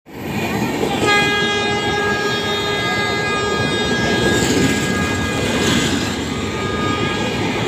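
A train horn sounds a long held chord from about a second in, fading out near the end, over the loud rumble and rattle of an Indian Railways express's passenger coaches running through the station at speed close by.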